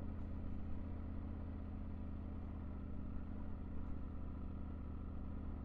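Triumph Tiger 900 GT Pro's three-cylinder engine running steadily, with no revving, as the motorbike is ridden along a loose clay track.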